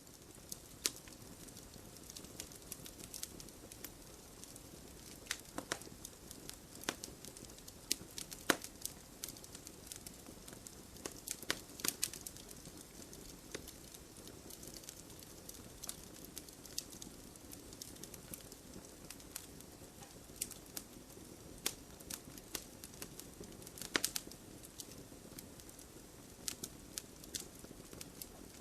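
Campfire burning: a low steady hiss of flames with irregular sharp pops and crackles of burning wood, a few louder pops among them.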